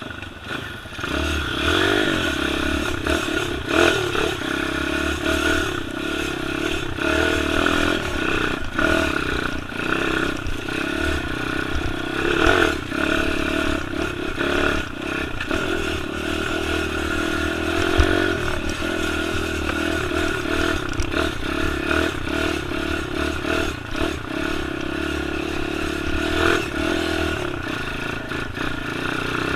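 Pit bike's small single-cylinder engine running as it is ridden off-road, the revs wavering up and down. It is crossed by scattered knocks and clatter, one sharp knock about two-thirds of the way through.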